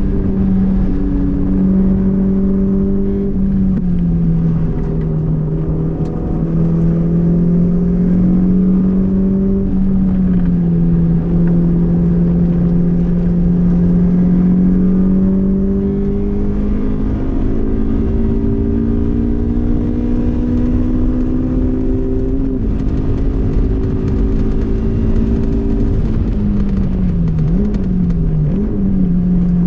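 Honda S2000's inline-four engine running hard at high revs, its pitch drifting slowly up and down with the throttle. Near the end the revs dip and recover twice in quick succession. A steady rumble of road and wind noise lies underneath.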